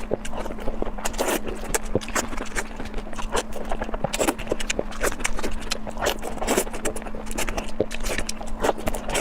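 Close-miked eating: crunchy biting and chewing, a rapid irregular stream of crisp clicks and crackles, over a faint steady hum.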